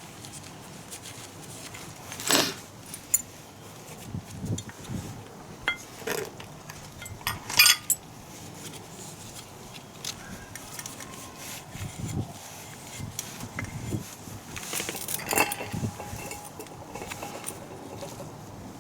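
Metal hand tools and small metal parts clinking and knocking at irregular intervals, with the loudest clatter a little before the middle.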